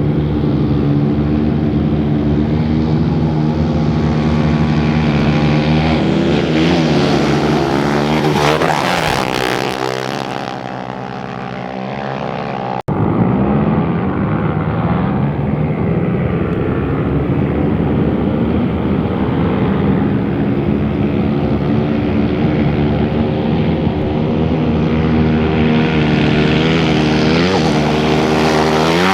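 Off-road race motorcycles passing at speed, their engines rising and then falling in pitch as each goes by, over a steady engine drone. One pass comes about eight to ten seconds in and another near the end, with an abrupt cut between them.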